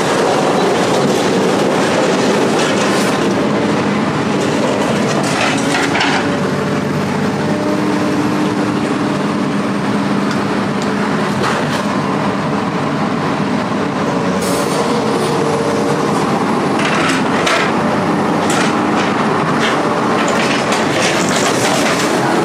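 A heavy vehicle running steadily, with a low engine hum and frequent rattles and clanks throughout.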